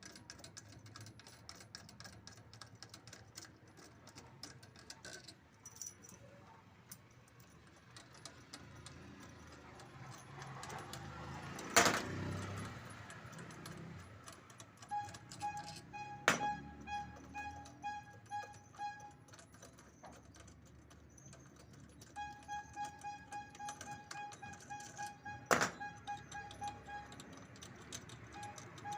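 Metal tools and parts clinking and rattling while the washing machine's motor is taken apart, with one loud metallic clank about twelve seconds in and two sharper knocks later.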